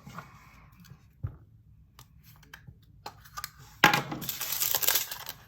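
Small resin diamond-painting drills rattling out of their bag into a plastic storage container: a few light clicks, then about four seconds in a dense, clinking rush lasting about a second as they pour.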